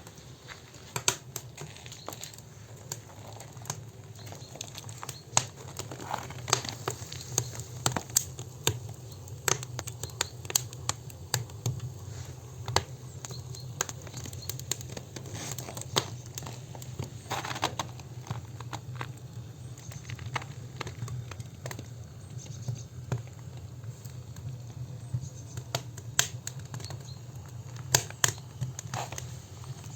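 Campfire crackling: irregular sharp snaps and pops, with a steady low hum beneath.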